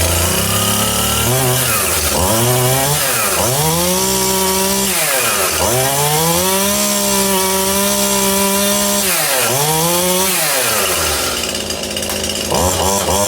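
Stihl MS181 two-stroke chainsaw test-run after a service: the engine is revved up to high speed several times, held there for about four seconds in the middle, and let fall back between revs. Near the end it drops to idle, with a couple of quick blips of throttle.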